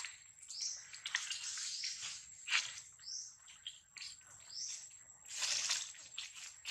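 A bird repeating a short high chirp about every one and a half seconds, over a thin steady high whine, with dry leaves rustling and crackling in bursts.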